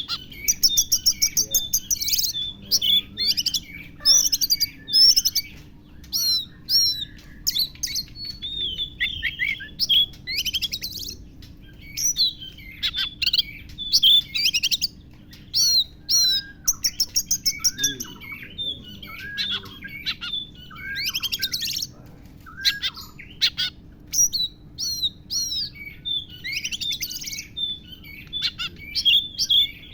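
Oriental magpie-robin (kacer) singing a fast, varied string of chirps and rattling trills, its song filled with mimicked lovebird calls.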